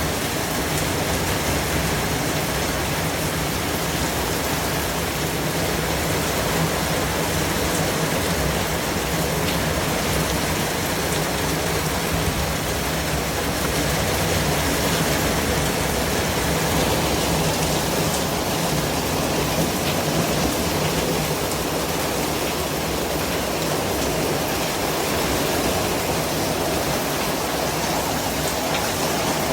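Steady white noise: an even, unchanging hiss spread across low and high pitches.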